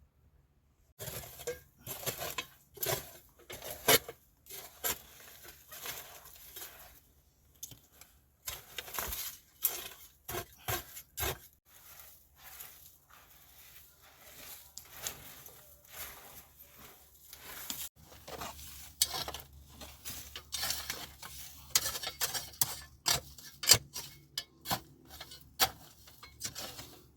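Irregular clinks, knocks and scrapes of hard objects being handled, starting about a second in and going on in a busy, uneven run.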